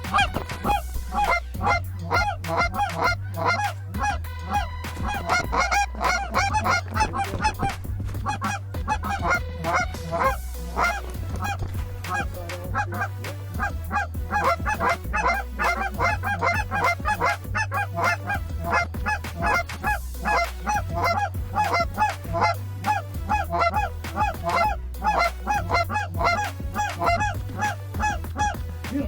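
A large flock of geese honking continuously, many short calls overlapping, over background music with a low repeating bass line.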